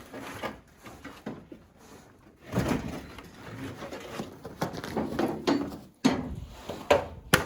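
Sheet-metal front clip of a 1989 Chevy S10 being pulled free of the truck: irregular scraping and knocking, with a few sharp clanks near the end.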